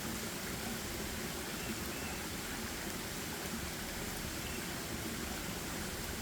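Steady, even rushing outdoor ambience, with a few faint short high chirps.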